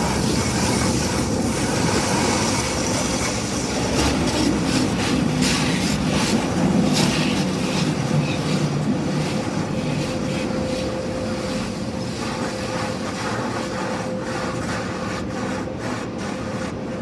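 Automatic car wash heard from inside the car's cabin: water and soap spraying against the body and windows, with rapid spattering over a steady machine hum.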